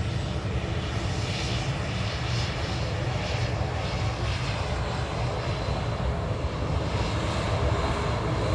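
Jet airliner engines running with a steady low rumble and hiss, and a faint high whine on top.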